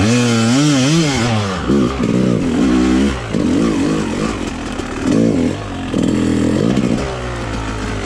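Dirt bike engine revving up and down in quick throttle blips, as a rider works the throttle. A second engine runs steadily underneath.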